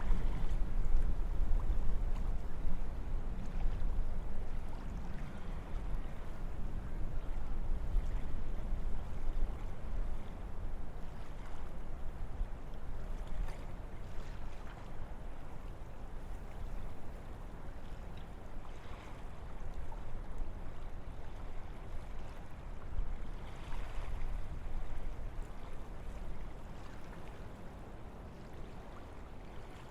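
Wind blowing through forest trees: a continuous low rushing that swells and eases in gusts, strongest in the first several seconds and dying down toward the end.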